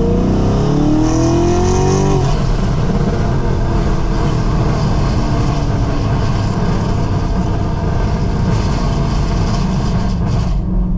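Chevrolet Camaro SS V8 with long-tube headers at wide-open throttle: the engine note climbs steeply in pitch over the first two seconds or so as it accelerates, then the run goes on loud and dense. The high hiss drops away shortly before the end.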